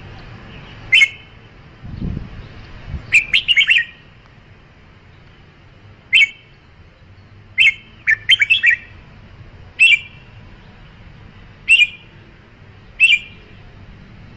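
Red-whiskered bulbul singing: short, bright whistled phrases repeated every second or two, some in quick clusters of three or four notes. A low thump about two seconds in.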